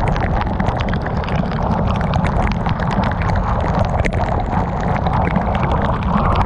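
Heavy rain pelting a moving car, with many sharp drop impacts over a steady low rumble of road and engine noise.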